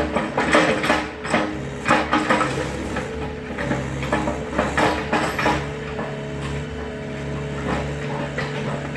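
Excavator engine running under load while the machine crushes and breaks apart a wooden garage: repeated cracking and crunching of wood and debris through the first five seconds or so, then mostly the engine running steadily.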